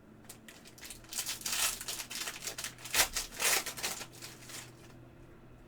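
Trading-card pack wrapper being torn open and crinkled: a run of rustling, crackling bursts lasting about three and a half seconds, with one sharp snap about three seconds in.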